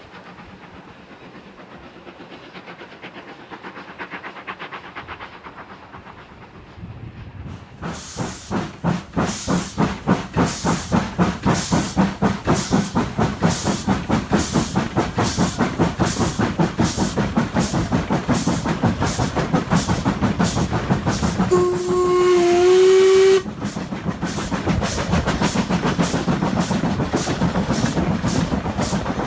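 Steam locomotive working hard: faint at first, then from about eight seconds in its exhaust beats come loud and even. About two-thirds of the way through it gives one whistle blast of about two seconds, and the beats carry on after it.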